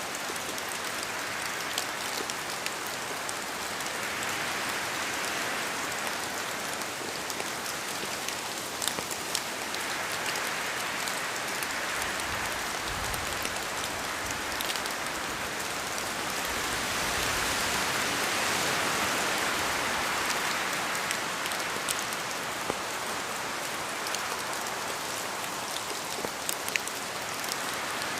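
Steady rain falling, an even hiss with scattered individual drops ticking sharply, swelling and easing slowly in intensity. A low rumble rises briefly about halfway through.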